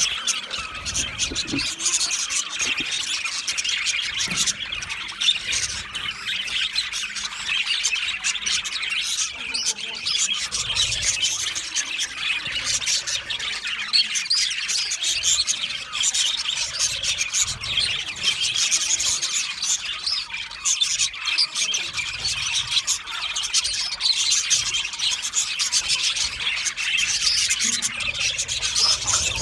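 A flock of budgerigars chirping and chattering without pause, many high twittering calls overlapping.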